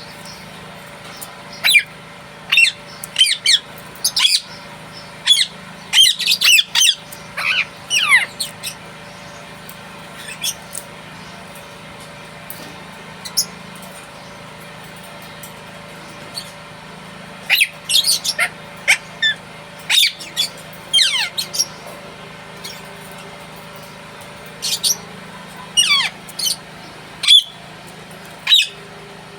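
Indian ringneck parakeet giving shrill, sharp squawks and chirps in three bouts of rapid calls, with a steady hiss underneath.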